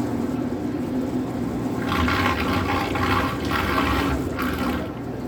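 Water rushing and splashing in three or four surges over about three seconds, above a steady low hum.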